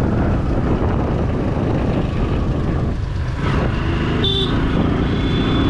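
Heavy wind buffeting on a GoPro Hero 9's built-in microphone, which has no mic adapter, while riding a motorcycle, with vehicle noise underneath. A brief high-pitched tone sounds about four seconds in.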